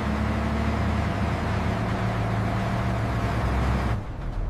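Heavy vehicle engine running steadily with a low drone and a broad noise over it, cutting off suddenly about four seconds in.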